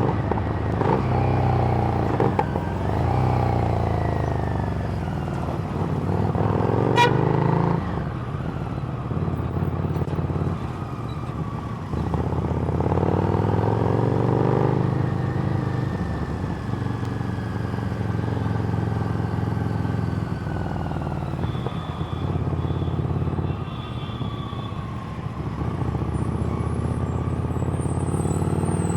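Harley-Davidson Street Rod V-twin with a Screamin' Eagle exhaust, riding along and revving up and easing off several times as it goes through the gears. There is a single sharp click about a third of the way in.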